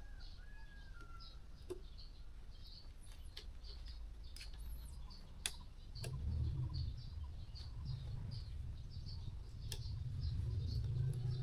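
Small birds chirping rapidly, with a few whistled calls, several sharp light taps, and a steady low hum that comes in about halfway through.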